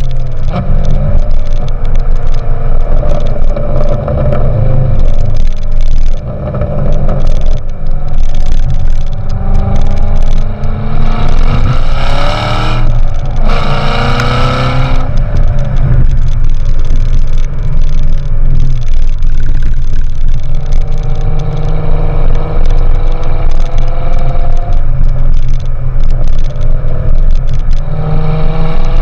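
2014 Corvette Stingray's 6.2-litre LT1 V8 through a GM Performance exhaust, a steady heavy rumble while driving. The revs climb hard twice near the middle, the loudest part, and pull up again later on.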